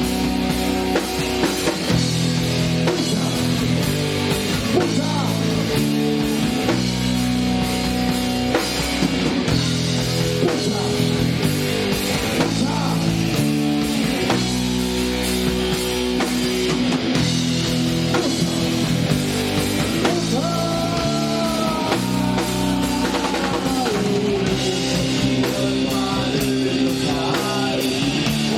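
Live punk rock band playing an instrumental passage: guitars, bass and drum kit keeping a steady beat, with a lead guitar line bending in pitch in the second half.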